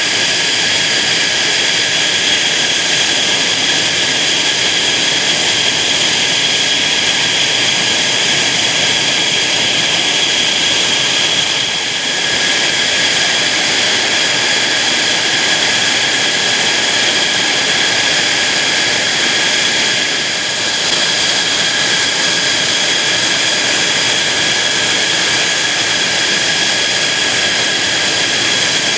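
Jet engine running steadily with a constant high-pitched whine over a loud rush, holding level rather than passing by.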